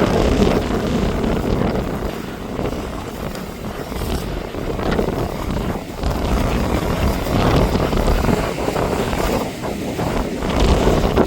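Hurricane-force wind gusting and buffeting the microphone, with a continuous rumbling noise that swells and eases every few seconds.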